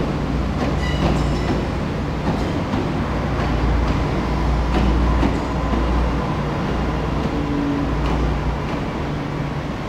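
Hong Kong MTR electric multiple-unit train passing, a steady rumble of wheels on rail with a few sharp clacks over the rail joints and a faint steady whine. The sound eases slightly near the end.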